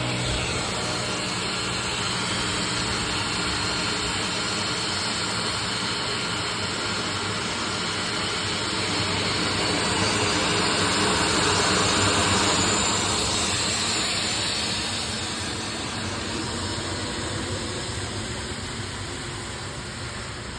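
Aircraft engine noise from a touch-and-go: a steady rush that builds to a peak about twelve seconds in, then slowly fades.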